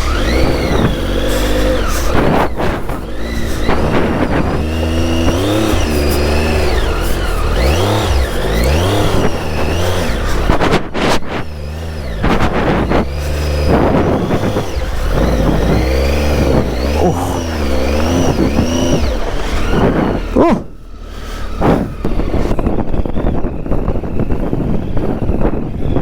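Triumph Tiger 800's three-cylinder engine revving up and down again and again as the bike is worked through mud with its rear tyre struggling for grip. The engine note drops away briefly about twenty seconds in, then picks up again.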